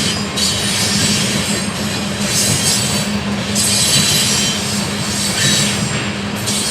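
Train rolling past, a loud, steady noise of wheels on rail with a steady low hum underneath.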